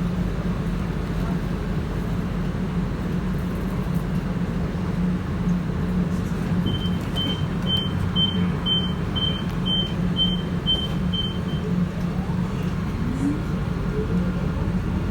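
Bursa T2 İpek Böceği tram running, with a steady low hum and rumble. About seven seconds in, a run of about ten short high beeps sounds, roughly two a second. Near the end a faint rising whine follows.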